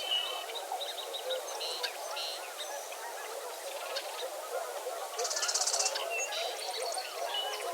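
Dense dawn chorus of a large mixed flock of birds calling at once: a thick layer of low chattering calls, with higher chirps and trills over it and a fast rattling call about five seconds in.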